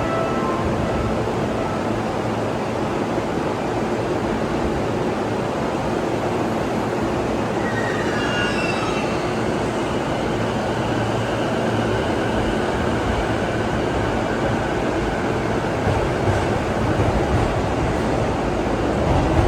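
Electric commuter train running through a station with a steady rumble. A high-pitched tone glides about eight seconds in, followed by a thin steady high whine.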